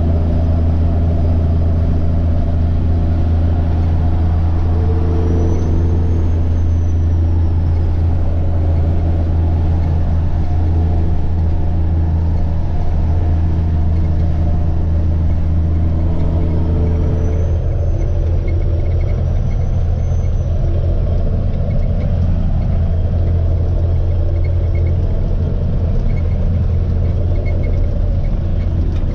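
Semi truck's diesel engine droning steadily under way, with a faint high turbo whine that rises and falls twice. The engine note changes about two-thirds of the way through.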